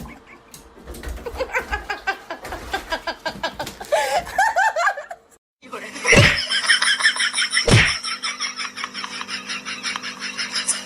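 People laughing, then after a short break two sharp thuds about a second and a half apart over a steady hum.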